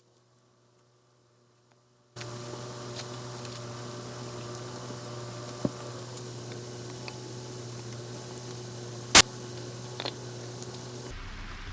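Steady hiss of heavy rain, with a low steady hum beneath it and a few sharp knocks, the loudest about nine seconds in. It starts abruptly about two seconds in, after near silence.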